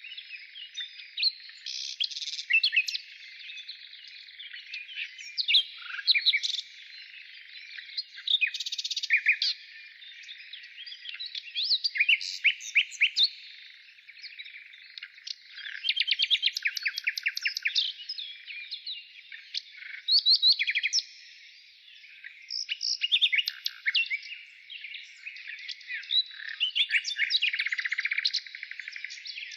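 Birds calling: a busy run of quick, overlapping chirps and trills, in bouts that come and go throughout.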